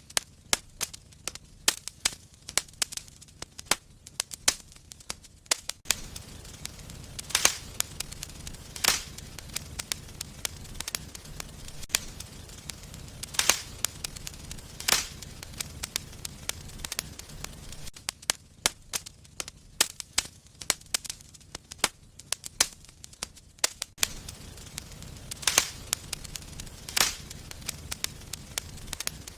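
Wood fire in a fireplace crackling, with frequent sharp snaps and several louder pops. A low rumble of the flames comes in about six seconds in, drops away around eighteen seconds and returns near the end.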